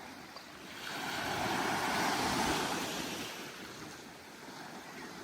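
Ocean wave washing up onto a sandy beach. Its hiss swells about a second in and dies away a couple of seconds later.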